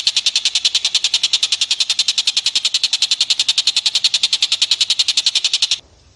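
Rapid chattering animal call from a masteran recording: a fast, even train of sharp high notes, more than a dozen a second, that cuts off suddenly near the end.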